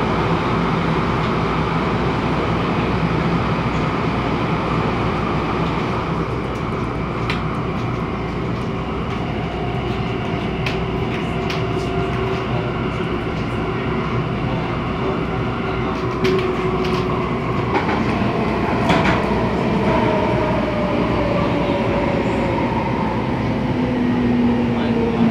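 MTR Tung Chung Line A-Train electric multiple unit running along the line, with scattered clicks from the wheels and track. In the last third its motor whine glides steadily down in pitch as the train slows.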